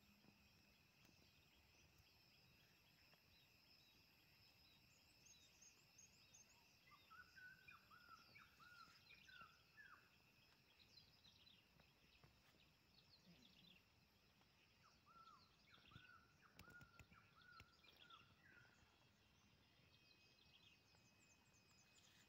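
Faint outdoor ambience: a small bird sings two bouts of quick repeated chirps, about a third of the way in and again past the middle, over a steady high insect drone.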